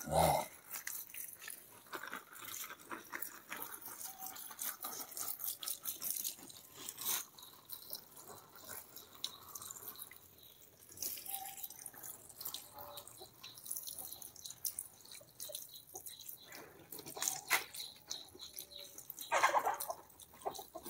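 Tap water running onto freshly repotted aglaonema plants, splashing and dripping on leaves and potting mix in an irregular patter over a steady hiss.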